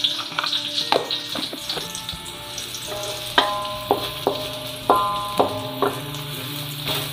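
Chopped aromatics and small dried fish sizzling in hot oil in an aluminium wok. A wooden spatula stirs them, scraping and knocking against the pan a few times early on.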